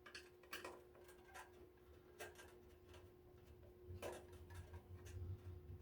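Faint, irregular clicks and taps of plastic heater parts being handled during disassembly, with a faint steady hum beneath.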